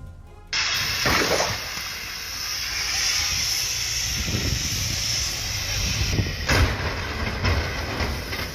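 A steady rushing hiss with a low rumble underneath, starting abruptly about half a second in, with brief swells now and then.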